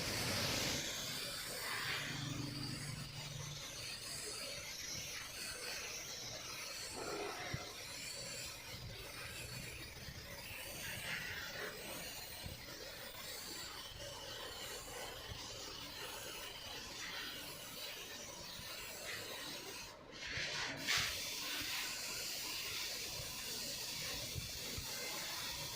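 Hand rubbing on a wooden surface in steady, even back-and-forth strokes, as when working a finish or sanding, with a brief break about twenty seconds in.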